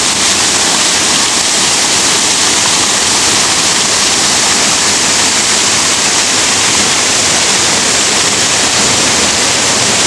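Rushing river water: a loud, steady, even rush.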